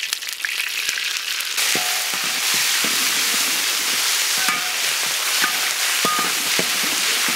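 Chili bean paste frying in hot rapeseed oil in a wok with scallion and ginger, sizzling and crackling. About a second and a half in the sizzle grows louder as a metal spatula stirs the paste and scrapes the wok.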